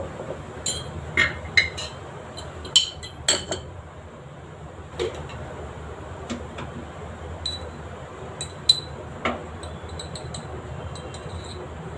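A metal spoon clinking against spice containers and a cooking pan while spice powders are measured out. About a dozen sharp, ringing clinks come irregularly, thickest in the first few seconds.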